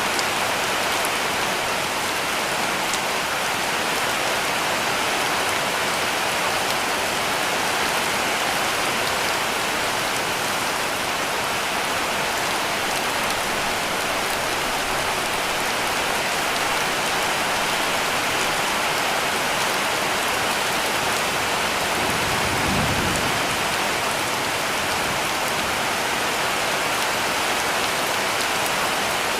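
Heavy rain falling steadily on a cabin roof, an even dense hiss. A brief low rumble swells in about two-thirds of the way through.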